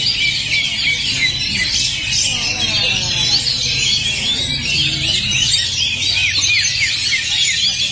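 Oriental magpie-robins (kacer) singing nonstop, a dense overlapping chorus of rapid, varied high chirps, trills and slurred whistles from several caged birds at once.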